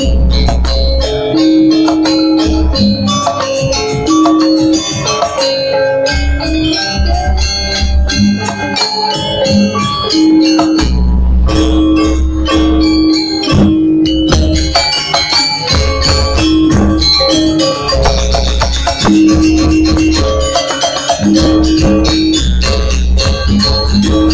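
Balinese janger dance music: held pitched melody notes over busy percussion with rattling strokes and a recurring deep bass note.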